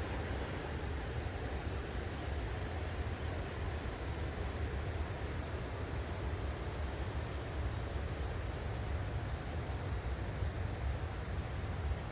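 Outdoor ambience: a steady hiss over a fluctuating low rumble, with a high insect call pulsing evenly about two to three times a second.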